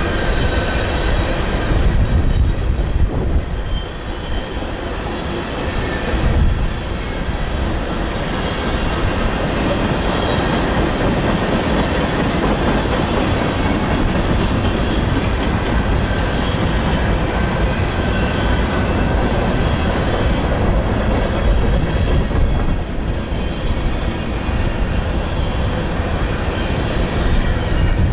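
A freight train's tank cars and covered hopper cars rolling steadily past. The rumble of wheels on rail carries faint high, steady tones above it.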